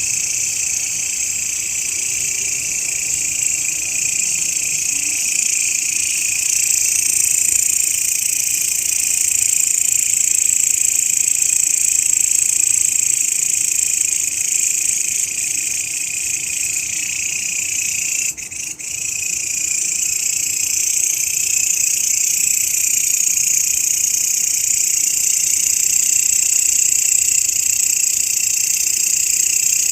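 Grasshopper (belalang) singing a continuous, steady high-pitched trill, with a brief drop in level about eighteen seconds in.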